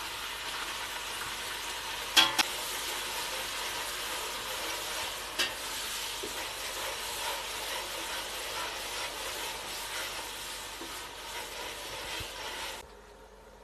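Yogurt and ginger-garlic paste sizzling in hot oil with fried onions in a steel pot as they are stirred: a steady frying hiss. Two sharp knocks come about two seconds in and again about five and a half seconds in, and the sizzle cuts off suddenly near the end.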